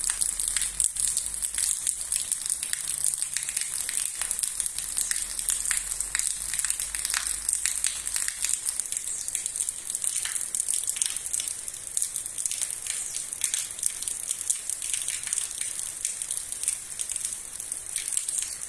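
Steady rain falling: a dense, unbroken patter of many drops.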